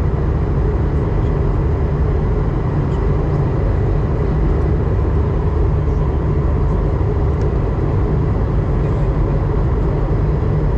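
Airliner cabin noise inside an Airbus A220-100 in flight: the steady low drone of airflow and its Pratt & Whitney PW1500G geared turbofan engines, with faint high ticks here and there.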